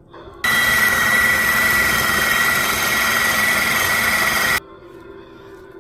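Electric blending appliance, a food processor or blender, running at full speed to chop and blend pesto, with a steady high whine over its motor. It switches on about half a second in and cuts off sharply after about four seconds.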